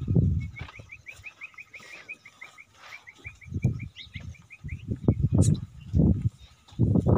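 A small bird chirping a fast run of short, evenly repeated notes for about four seconds. Several loud, low thumps come over it, the strongest right at the start and a cluster in the second half.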